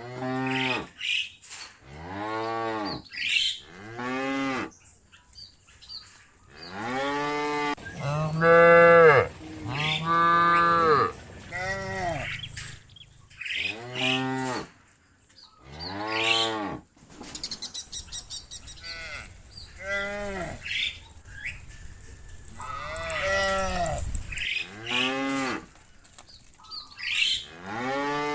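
Cows mooing one after another, a long series of drawn-out calls, some overlapping as several animals call at once.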